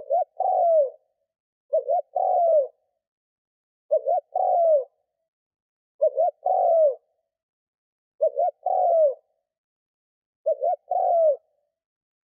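Spotted dove cooing: a decoy male's territorial call, used to draw in wild doves. Each phrase is two short coos and then a longer coo that falls in pitch, repeated six times about every two seconds.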